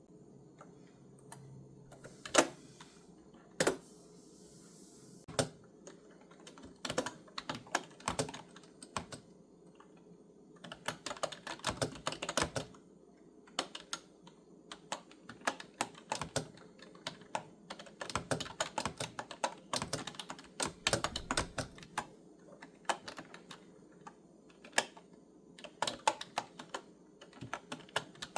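Typing on a clicky retro-style computer keyboard. A couple of heavier single keystrokes come in the first few seconds, followed by irregular runs of fast key clicks broken by short pauses.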